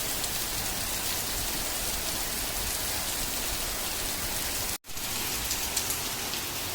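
Heavy rain falling steadily, with a brief dropout a little under five seconds in.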